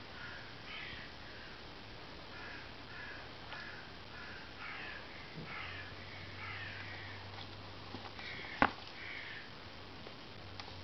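A bird calling over and over in short harsh caws, with one sharp click about eight seconds in.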